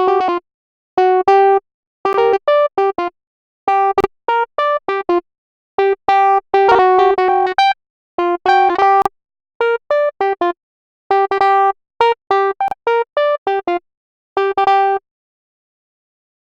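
Electronic keyboard-like notes playing a choppy, stuttering melody, each short note cut off abruptly to dead silence before the next. The notes stop a little before the end, leaving silence.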